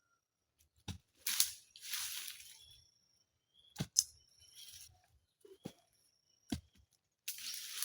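Irregular sharp knocks from hand-tool work outdoors, a second or more apart, with rustling scrapes after some of the knocks.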